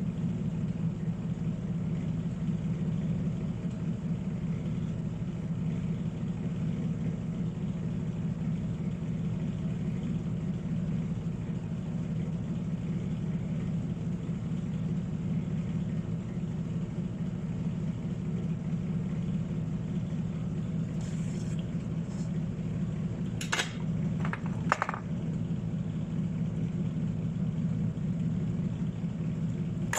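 A steady low machine hum, with a few sharp clicks about three-quarters of the way through.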